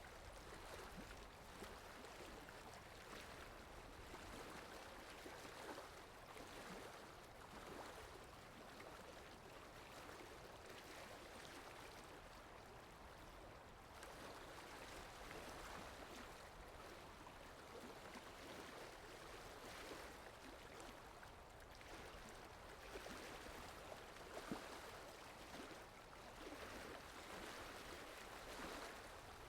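Faint, steady rain and running-water ambience: an even hiss of water with no clear tune.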